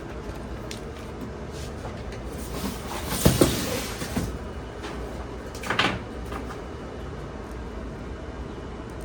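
Objects being handled, with a cluster of sharp knocks and a scrape about three seconds in and a second, shorter clatter near six seconds, over a steady low background noise.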